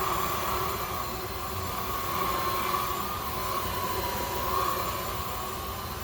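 Zoker A10 Pro cordless stick vacuum running on its highest power setting: a steady motor whine whose pitch wavers slightly.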